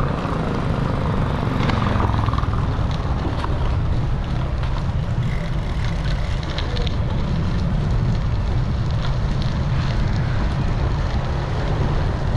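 Wind buffeting the microphone of a camera riding along on a moving bicycle, a steady low rumble, with faint road noise and small ticks.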